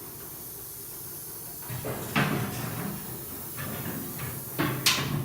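Hydraulic vehicle lift lowering a truck: a steady hiss of the released fluid, then a run of metallic clunks and knocks from about two seconds in, the loudest near the end.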